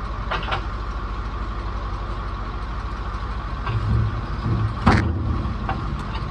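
A vehicle engine idling with a steady, even pulse, its low note growing louder in the last couple of seconds. A few light clicks and one sharp knock come about five seconds in.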